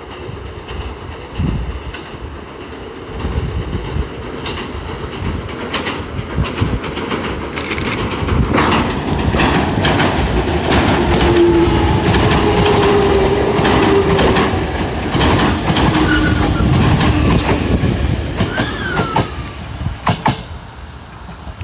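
Sanyo Electric Railway 5000-series electric train passing close on a steel girder river bridge: at first only wind on the microphone, then the train builds to a loud rumble with rapid wheel clacks over the rail joints, a brief squeal near the end, and fades away as it recedes.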